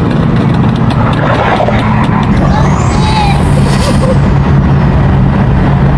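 A car engine running steadily under a heavy haze of road noise.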